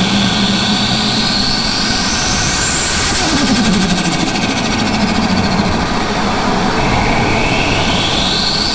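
Turbocharged Ford Falcon Barra inline-six on boost: the turbo whine climbs steadily in pitch. About three seconds in the throttle closes, the engine note drops and the turbo flutters with a rapid chatter. Near the end the whine starts climbing again as it spools up once more.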